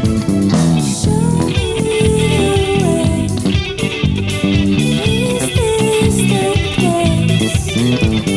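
Funk rock band playing live: an electric guitar lead line with bending notes over bass and drums.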